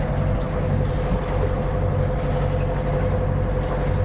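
A sailing yacht's engine running steadily under way, a constant low hum with a faint steady whine above it.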